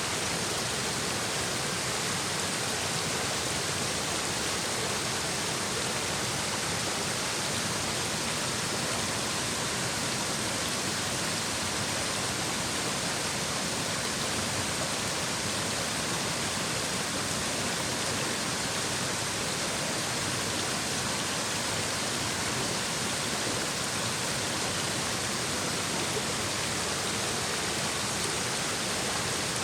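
Shallow mountain stream babbling over rocks: a steady, even rush of running water.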